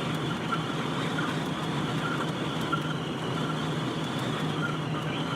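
Steady road and engine noise from inside the cabin of a moving truck.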